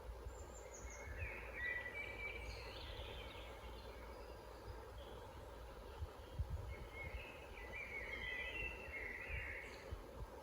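A songbird singing two warbling phrases, the first about a second in and the second from about six and a half seconds, with a short high note near the start, over a steady low rumbling background noise.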